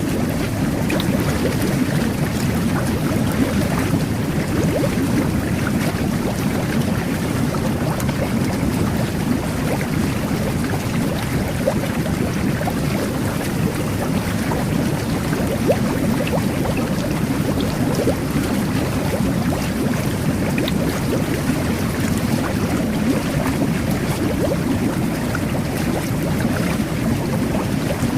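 Jet bath, a whirlpool bubble bath, churning its water: a steady, deep rush of bubbling water with a fine crackle throughout.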